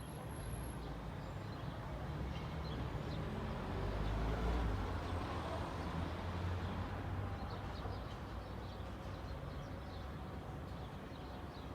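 A car passing by on a street, its low tyre and engine noise swelling to a peak about four seconds in and then slowly fading, with faint scattered bird chirps.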